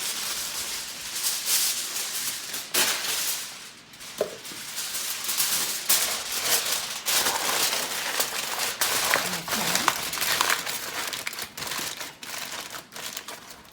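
Aluminium foil crinkling and crackling as it is pulled over and crimped tightly around a baking dish to seal it, with many irregular sharp crackles.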